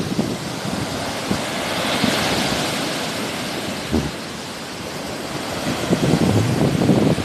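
Sea waves washing onto the shore, one wash swelling about two seconds in, with gusts of wind buffeting the microphone at the start and again near the end.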